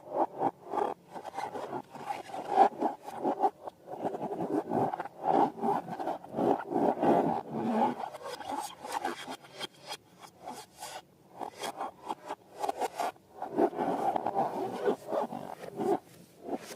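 Slime being squished and worked by hand: a fast, uneven run of sticky crackles and squelches that pauses briefly a few times.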